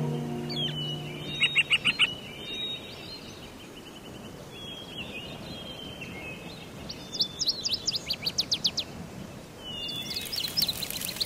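Small birds chirping and singing in quick runs of high repeated notes: one run about a second and a half in, a longer one from about seven to nine seconds, and another near the end, over a faint steady outdoor hiss. The tail of string music fades out in the first second.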